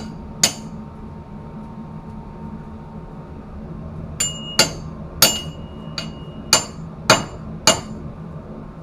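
Sharp metal-on-metal strikes with a short ring, like a hammer or tool tapping pipework or fittings: one strike about half a second in, then a run of about seven strikes roughly half a second apart from about four seconds in. A steady low hum runs underneath.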